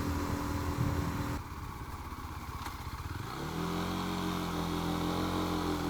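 Rieju motorcycle engine riding up a steep mountain road: the engine note drops off about a second and a half in as the throttle closes, then comes back and picks up again a little after the middle, rising slightly before running steady, with road and wind noise throughout.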